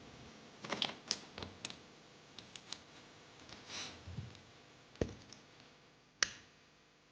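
Irregular small clicks and taps from small objects being handled on a work surface. There is a short rustle near the middle and two sharper taps near the end.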